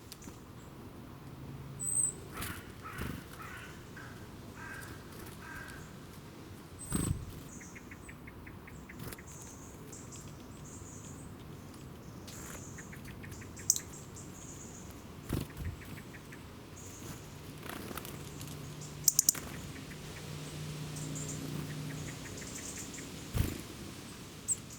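Wild birds chirping and calling outdoors: scattered short high chirps, a run of harsher repeated calls a few seconds in, and several sharp clicks, including a quick triple click past the middle.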